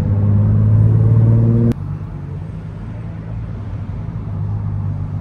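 Car engine and road noise, a steady low drone. Less than two seconds in it drops off abruptly with a click and carries on quieter and lower in pitch.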